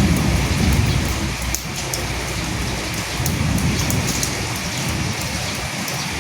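Steady rain falling on dead leaves, with single drops ticking sharply through the hiss. A low rumble under it fades out in the first second or two.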